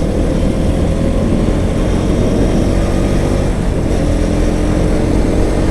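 Motorcycle engine running steadily at highway cruising speed, with road and wind noise.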